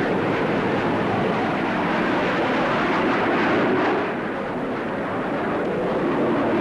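Jet noise of a Hawker Hunter in flight: a steady rushing engine sound that dips briefly about four seconds in, then comes back up.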